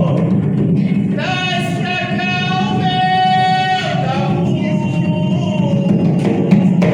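Jongo song being sung, with a long held note from about one to four seconds in, over a steady low accompaniment.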